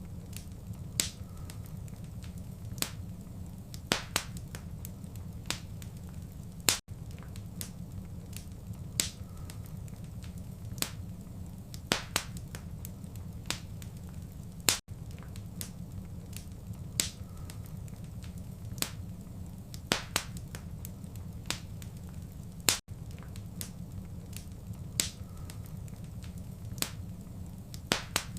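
Wood fire crackling in a fireplace: sharp irregular pops and snaps a second or two apart over a steady low rumble. Every eight seconds or so the sound drops out for a split second.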